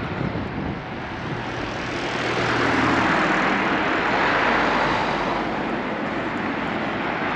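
A vehicle passing on a road: a steady rushing noise that swells about two or three seconds in and then fades.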